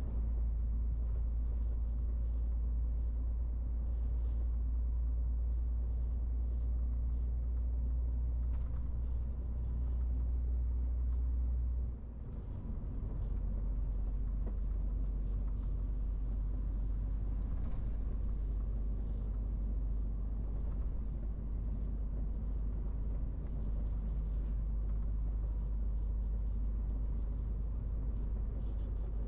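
MAN TGX 18.470 truck's inline-six diesel engine running steadily with a deep drone. The drone dips briefly about twelve seconds in, then settles back.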